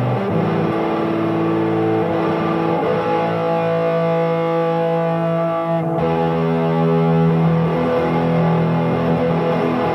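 Early-1980s Japanese-made Fresher FRS SS-40 electric guitar played through an amp: sustained notes and chords ringing, with a change to new notes about six seconds in.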